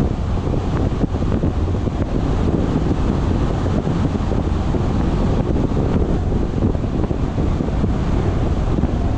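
Steady wind rumble buffeting an action camera's microphone, loud and low with no distinct events.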